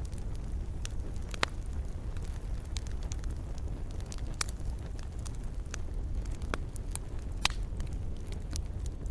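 Wood campfire crackling, with sharp pops every second or so over a steady low rumble.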